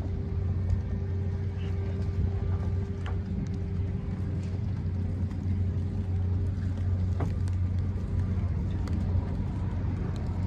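A steady low engine hum, with a faint steady tone above it that fades out about halfway through and a few small clicks.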